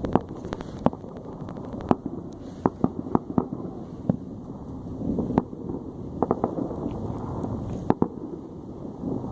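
New Year's fireworks going off: many sharp pops and bangs at irregular intervals, some in quick clusters, over a steady low rumble.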